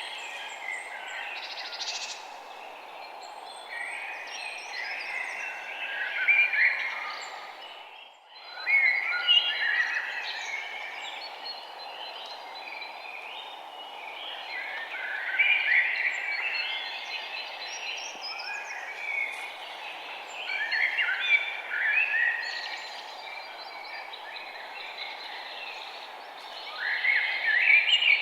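Several songbirds chirping and twittering in overlapping bursts that swell and fade every second or two, over a steady background hiss. The whole sound drops out briefly about a third of the way in.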